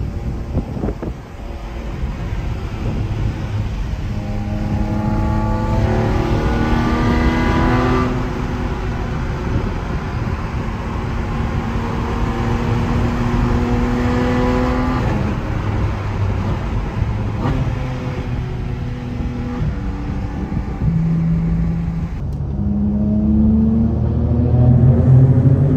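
Porsche 718 Cayman GT4 RS's naturally aspirated flat-six heard from inside the cabin, accelerating: the engine note climbs in pitch through two pulls, broken by gear changes, then settles to a steadier cruise. Near the end it changes to a louder, deeper drone.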